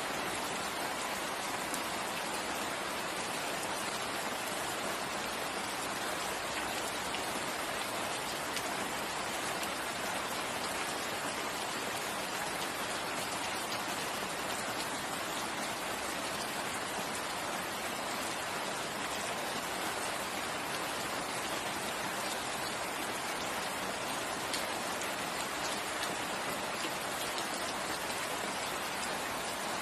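Steady rain falling, an even hiss of many drops with faint individual patters, unchanging in level.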